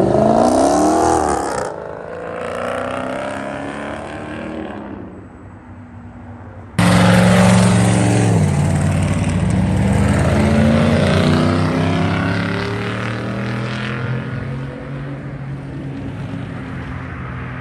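A loud car engine revving up hard as it accelerates away, then fading. About seven seconds in, another car launches loudly, its deep exhaust note dropping in pitch a second later before it fades into the distance.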